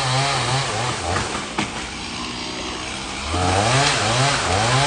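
Chainsaw revving up and down as it cuts limbs of a fallen tree, easing off to a quieter run in the middle, with a single sharp crack about a second and a half in.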